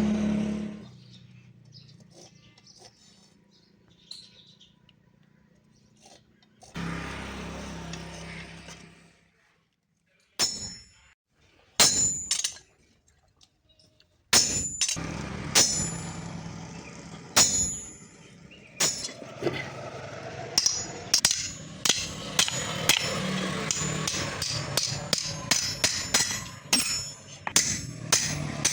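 Hammer blows on steel, each strike ringing high and sharp. They start about halfway through, at first spaced out and then coming quickly, several a second. Earlier there are two brief spells of a humming machine and a few separate knocks.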